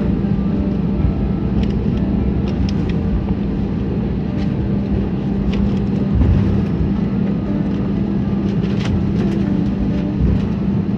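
Airliner cabin noise from the jet engines: a steady low rumble with a constant hum, and light clicks or rattles now and then.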